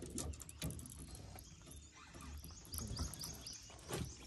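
A bird chirping: a quick run of about seven high notes, roughly four a second, starting near the middle. A few light knocks sound around it, one near the start and one near the end.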